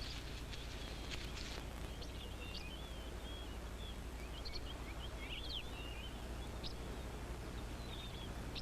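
Sandgrouse chicks giving many short, high chirping calls, scattered unevenly, over a faint steady low hum.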